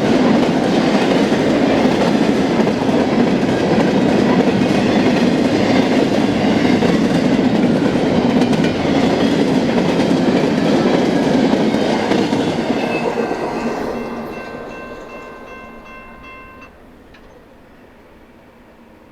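BNSF freight train rolling past, its wheels clacking steadily over the rail joints. The sound fades away from about twelve seconds in, with a faint steady high tone as it dies out.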